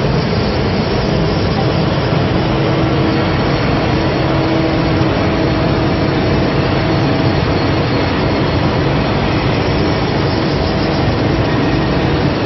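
Torch of a CNC thermal cutting machine cutting steel plate: a steady, loud hissing roar with a faint steady whine under it.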